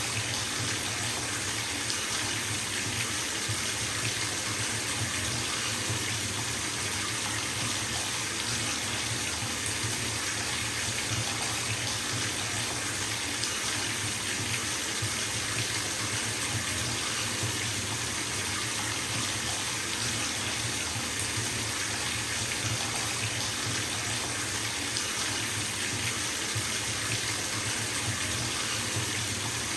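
Bathtub filling from a running tap: a steady stream of water splashing into the tub, an even unbroken hiss.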